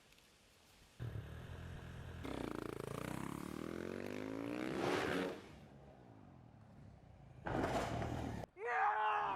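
Motocross motorcycle engine revving hard, its pitch climbing steadily for about three seconds before it cuts off suddenly. A second of rushing noise follows near the end.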